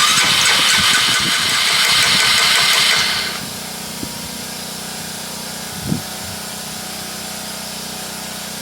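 Old ATV engine being cranked over for about three seconds, then a quieter steady sound. This is a hard-starting engine, which the owner puts down to a sticking carburetor float leaking fuel into the air box after the ATV sat for weeks.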